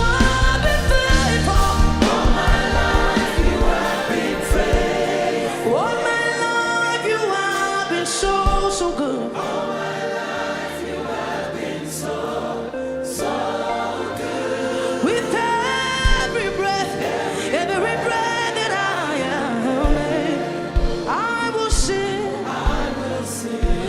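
Gospel worship music sung by a group of voices, with occasional drum beats.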